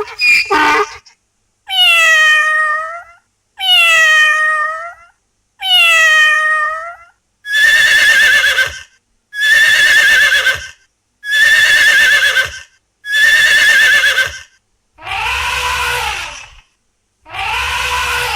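A series of recorded animal calls, each about a second and a half long with short gaps between them. First come three falling, meow-like cat calls. Then come four higher, wavering calls, and near the end two lower calls over a rumble.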